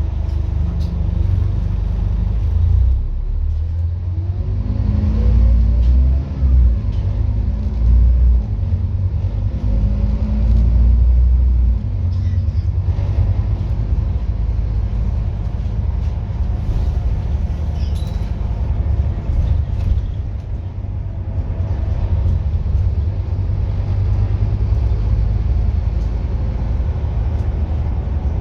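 Scania N230UD double-decker bus's five-cylinder diesel engine pulling away, rising in pitch through the gears several times in the first dozen seconds, then running steadily with a heavy low drone.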